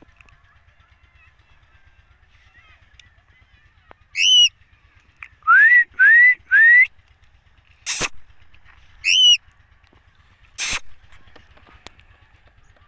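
Green ringneck (rose-ringed) parakeet calling: a harsh squawk that rises and falls, then three quick rising whistles, then a second harsh squawk. Two sharp clicks fall between them.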